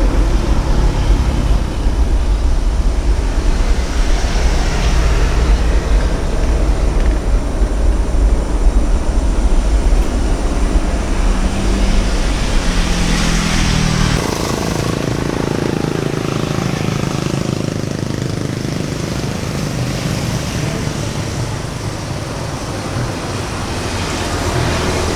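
Jet airliner engine noise: a loud, continuous deep rumble that drops away about fourteen seconds in, leaving a steadier, softer roar.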